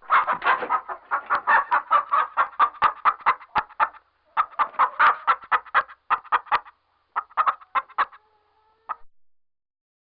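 Chickens clucking in three runs of rapid clucks, with one last cluck about nine seconds in.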